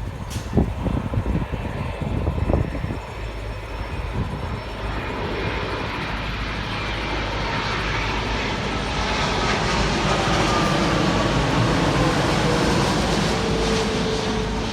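Jet airliner on landing approach passing by. Its engine noise swells over several seconds, is loudest about ten to thirteen seconds in, and carries a whine that falls in pitch as it goes past. A few low thumps come in the first three seconds.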